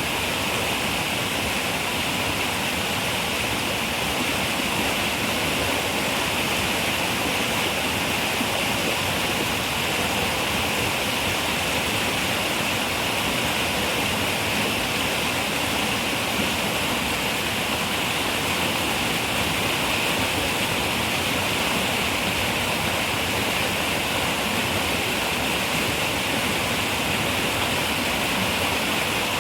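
Running river water rushing steadily, an even hiss with no breaks or changes.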